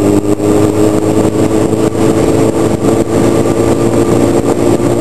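Sportbike's inline-four engine running at a steady cruise while ridden, its note holding nearly level, with wind rushing over the microphone.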